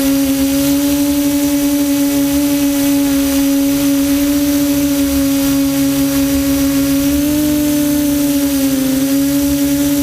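Quadcopter's electric motors and propellers humming steadily at one pitch, recorded on the aircraft itself, with a brief small shift in pitch near the end as the throttle changes.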